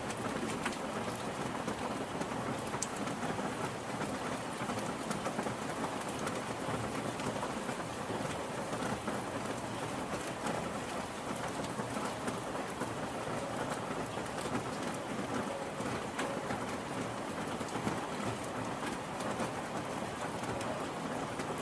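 Steady rain falling, an even patter of drops on a surface with scattered sharper drip clicks.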